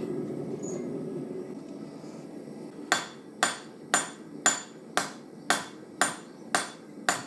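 Hand hammer striking hot steel on an anvil in a steady rhythm of about two ringing blows a second, starting about three seconds in. Before the blows there is a steady low rush.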